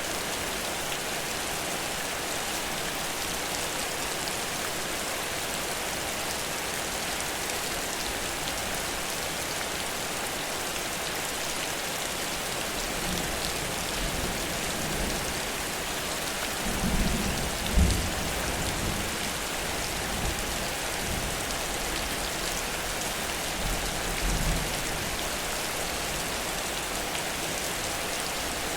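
Heavy rain falling in a steady downpour. Low rumbles of thunder swell about halfway through and again near the end.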